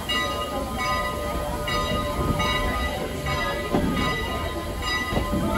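Strasburg Rail Road passenger coaches rolling slowly past on the track: a steady rumble of wheels on rail, with a high squeal that comes and goes every half second or so.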